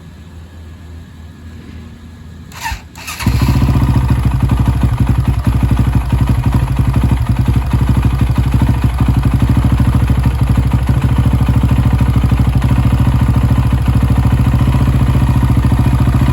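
2004 KTM 450 EXC's single-cylinder four-stroke engine starting about three seconds in and then running steadily, a start after more than five years of sitting unused.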